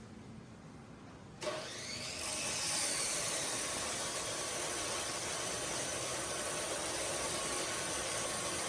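A machine starts up about one and a half seconds in, builds over about a second, then runs on steadily with a faint high whine.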